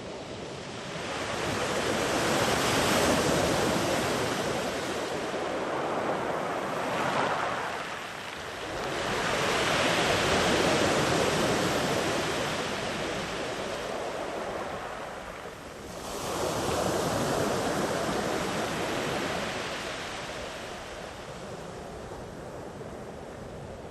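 Ocean waves breaking and washing up a sandy beach, three swells rising and fading, each wash running several seconds, with the surf quieter toward the end.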